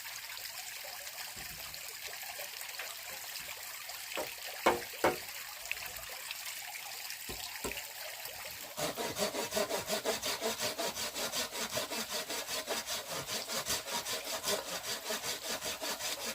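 A few knocks, then from about halfway through a hand saw cutting wood with quick, regular strokes, about three a second.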